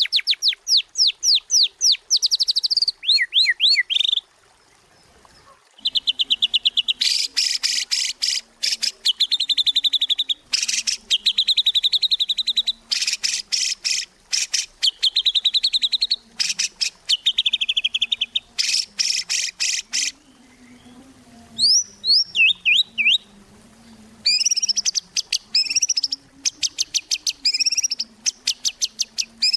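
White-rumped shama (murai batu) singing in full, continuous song: long bursts of fast, rapidly repeated sharp notes and trills, with a brief pause a few seconds in.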